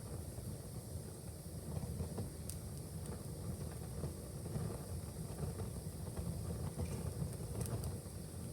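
Wood fire burning in a fireplace: a steady low rumble of flames with a few faint crackles.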